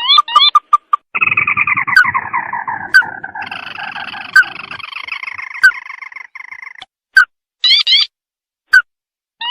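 Crake calling: a long, descending trill lasting about five seconds, bracketed by short upslurred call notes and a brief burst of quick notes near the end.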